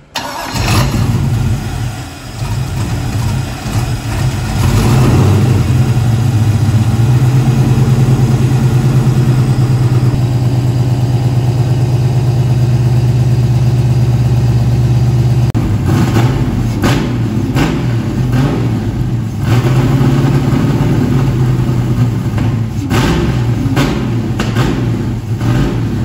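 LS3 V8 in a BMW E46 drift car starting up and running at a steady, lumpy idle. In the second half it is blipped several times in short revs.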